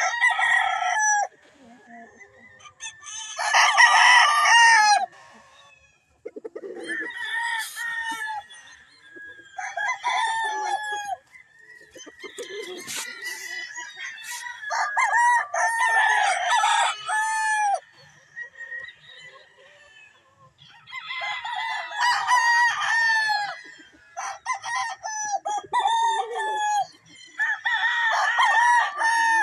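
Young rooster (a stag) crowing over and over, a crow every few seconds.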